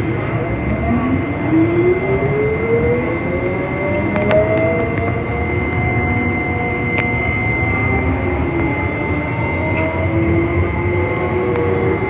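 Electric tram running, heard from inside the car: the whine of its traction motors rises in pitch over the first few seconds as it gathers speed, over a steady rumble and a steady high tone. Near the end another whine starts to rise.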